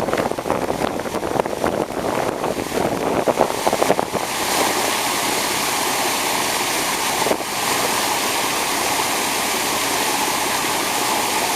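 Rushing, splashing water. It is choppy and uneven for the first four seconds, then settles into a steady, even rush.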